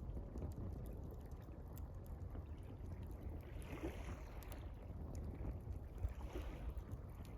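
Campfire crackling with sparse sharp pops over gently lapping water and a low steady rumble. Twice a soft rushing swell of water comes up, about four seconds in and again near the end.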